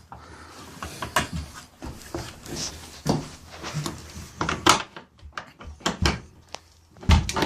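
A truck door and its lock being worked by hand: an irregular run of clicks, rattles and knocks, with a heavier clunk near the end.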